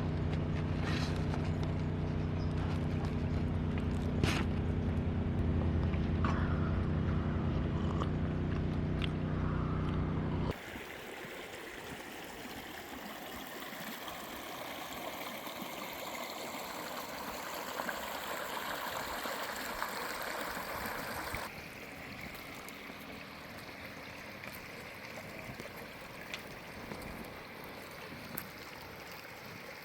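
A steady low hum with a few sharp clicks. After an abrupt cut comes an even hiss of food sizzling on a camp grill, which drops to a quieter sizzle after a second cut.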